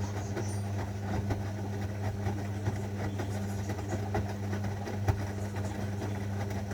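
Zanussi washing machine running with a steady motor hum and scattered light clicks as the drum turns.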